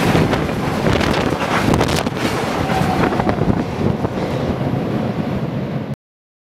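The last tank cars of a freight train rolling past, with a few wheel clacks on the rails, then the rumble dying away as the train draws off, under wind noise on the microphone. The sound cuts off suddenly near the end.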